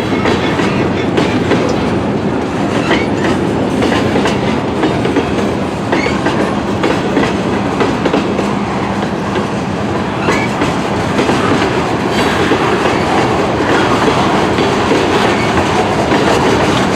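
Canadian National mixed freight train rolling past, its cars' wheels running over the rails in a loud, steady rolling noise, with a short high squeak every few seconds.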